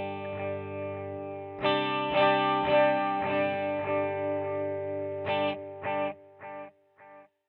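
SX electric guitar through a Saphue digital delay pedal: a chord rings out, is strummed again, then breaks into echo repeats about half a second apart that grow shorter and fainter until they die away near the end.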